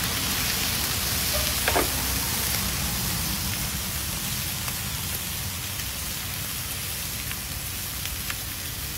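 Chopped boiled eggs sizzling in oil on a large flat iron griddle: a steady frying hiss that eases slightly, with a few faint ticks.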